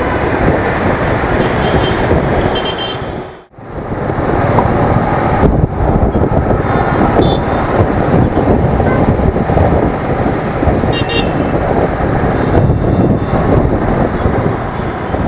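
Riding noise from a Royal Enfield Thunderbird in city traffic: steady wind rush and engine and road noise on the action-camera microphone, with a few short horn toots. The sound drops out briefly about three and a half seconds in.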